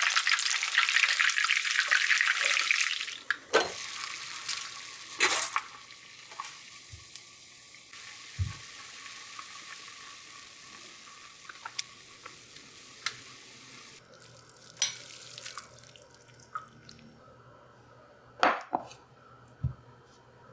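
Kitchen work sounds: a loud steady hiss cuts off about three seconds in, followed by a fainter hiss and scattered light clicks and knocks of utensils and dishes.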